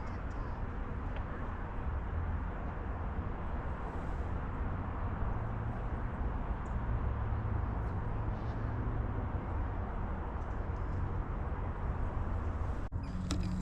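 Steady outdoor background noise: an even hiss over a continuous low rumble, cut off abruptly near the end.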